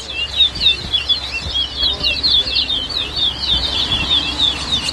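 Towa-towa finch singing a fast, continuous song of quick rising and falling whistled notes, one after another without a break.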